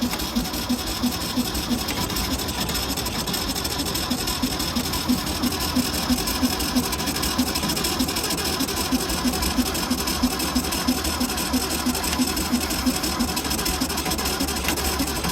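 A 1964 VW Beetle's air-cooled flat-four being turned over by the starter on a first start attempt after sitting for decades, with fuel poured into the carburetor. It makes a steady, even chugging rhythm of about three to four beats a second.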